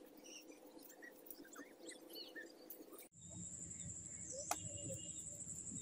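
Faint scattered bird chirps in open fields. About three seconds in the sound cuts to a steady high-pitched whine over low rumbling, with a single sharp click.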